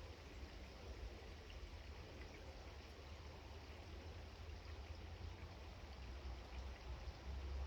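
Faint steady outdoor background noise, an even hiss over a low rumble that gets louder near the end.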